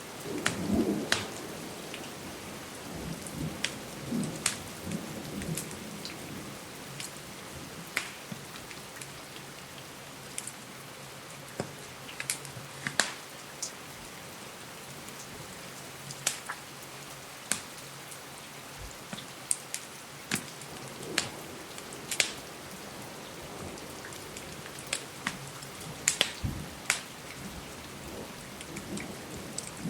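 Steady rain with the sharp crackles and pops of a wood fire scattered irregularly throughout. A low rumble of thunder sounds in the first several seconds.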